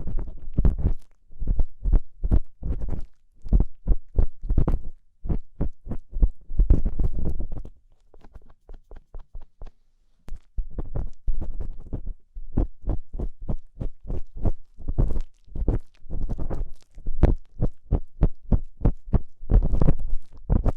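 Ear-cleaning tool scratching and scraping in the ear of an ASMR microphone, in quick short strokes about two or three a second, with a softer, sparser stretch about eight to ten seconds in.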